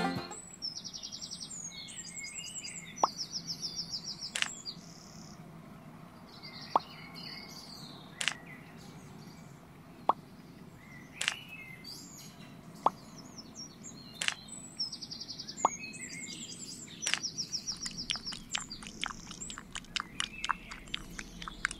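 Small birds chirping in short repeated high trills. Single sharp ticks or plops sound every second or two, turning into a quick run of ticks near the end.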